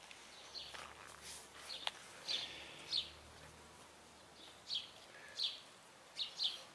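Faint bird chirps: a few short calls in the first half, then a few more in the second half, over a quiet outdoor background.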